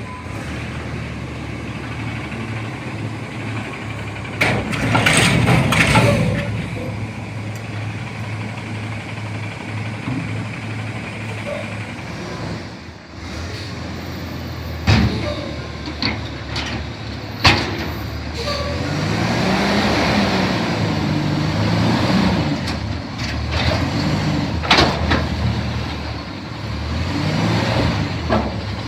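CNG front-loader garbage truck running, with a hiss of air about five seconds in and a couple of sharp bangs midway. In the last third the engine revs up and down.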